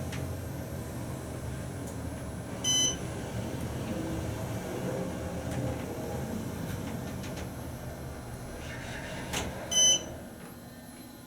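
Otis hydraulic elevator car travelling with a steady low running hum, and two short electronic beeps from the car about seven seconds apart. The hum drops away just after the second beep as the car stops at its floor.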